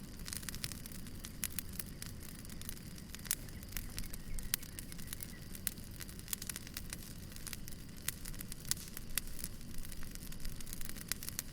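Wood fire burning, with frequent sharp crackles and pops over a steady low rumble of flames.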